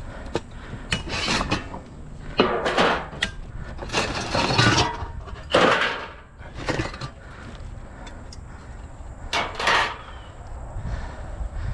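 Loose scrap pieces being handled, dragged and set down: a run of irregular scraping and clattering bursts with short pauses between.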